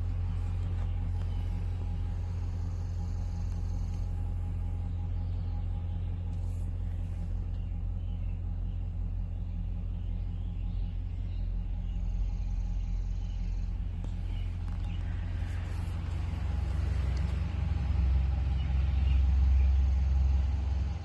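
2006 Chevrolet 1500 pickup's engine idling with a steady low rumble, growing louder for a few seconds near the end.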